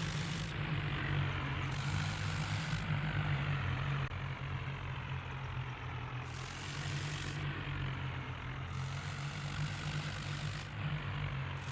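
Tractor engine running steadily at low revs, a little quieter after about four seconds.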